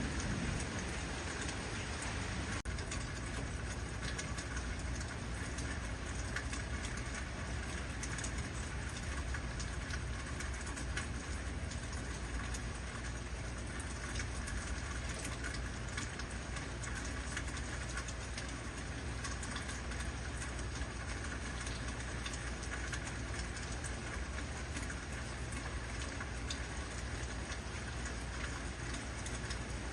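Steady heavy rain falling, a dense even hiss with fine patter of drops on a surface.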